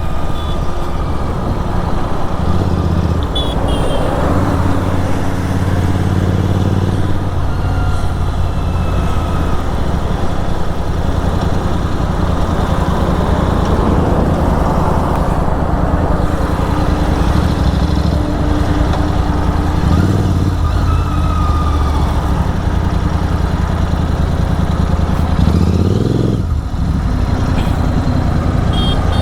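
Motorcycle engine running steadily under way, with wind rush; the engine pitch rises and falls briefly near the end.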